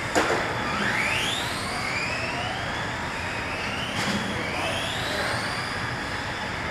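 Electric RC cars racing on a track, their motors giving repeated rising whines as they accelerate, several cars overlapping. A sharp knock comes just after the start and another about four seconds in.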